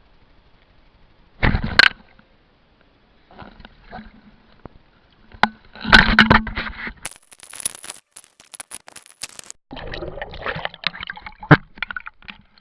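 Close handling noise: irregular scraping and rustling bursts with sharp clicks and knocks, as of a small device and its cable being handled near the microphone.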